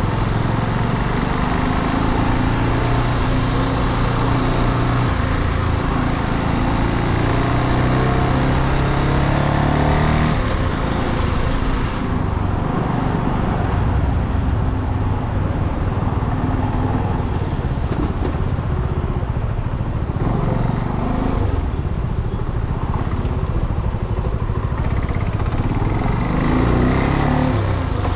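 Brixton Cromwell 250's single-cylinder air-cooled engine running as the bike is ridden, with wind rush. The wind noise falls away about twelve seconds in as the bike slows. Near the end the engine pitch rises as it accelerates again.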